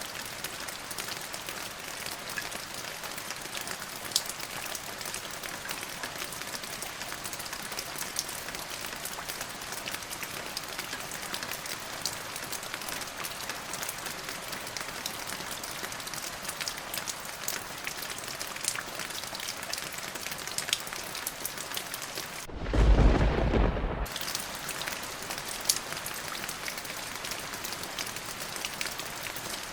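Steady heavy rain hissing, with scattered sharp drop ticks. About three-quarters of the way through comes one short, loud, deep clap of thunder, lasting about a second and a half, during which the rain hiss drops out.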